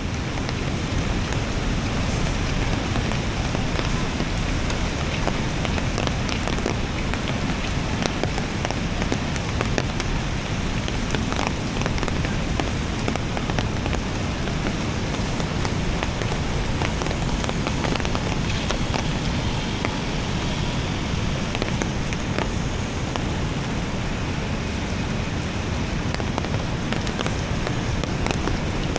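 Steady rain falling, with many separate drops ticking close by, over a continuous low rumble.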